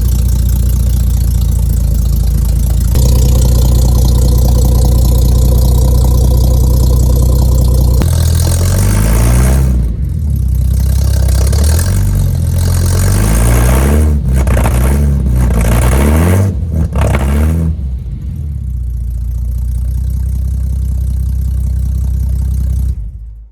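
Ford AU Falcon's 4.0-litre inline-six running through the first section of a new custom exhaust with its first muffler, a deep exhaust note. It runs steadily at first, is revved up and down repeatedly from about eight seconds in, settles back to a steady run, and cuts off suddenly near the end.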